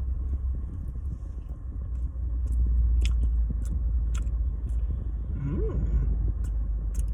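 Biting into and chewing a filled Krispy Kreme doughnut close to the microphone, with scattered sharp mouth clicks, over a steady low rumble inside a car.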